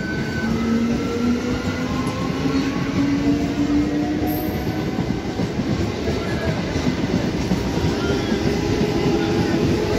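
Electric local train accelerating away from a station: its motors whine, rising slowly in pitch, over a dense rumble of the carriages and a clatter of wheels on the rail joints.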